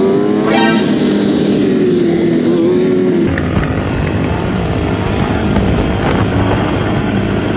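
Kawasaki 636 sport bike's inline-four engine at high revs, with a quick sharp rev about half a second in. About three seconds in the sound changes abruptly to the engine running lower under heavy wind noise while riding.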